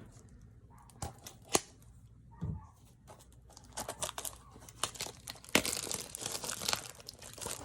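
Funko Mystery Minis blind-box packaging being torn and crinkled. A few sharp clicks come first, then the tearing and crinkling thickens over the last couple of seconds.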